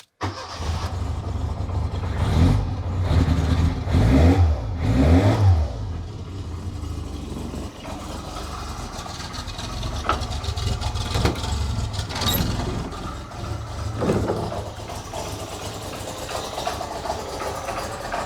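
1985 Lancia A112 Abarth's 1050 cc Fiat four-cylinder engine starting up cold and revved up and down several times, then settling about six seconds in to a steady idle that runs a little rough because the engine is cold. It is running on a badly worn distributor cap and rotor.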